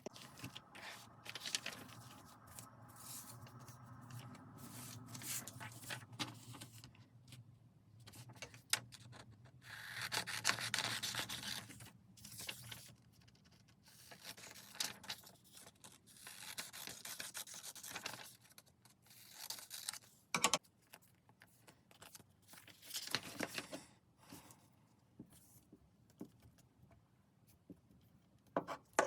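Paper being handled, torn and scraped in short irregular bouts, with small clicks.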